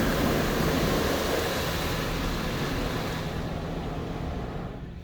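High-pressure water spray of a touchless car wash hissing over the car, dying away over the last two seconds.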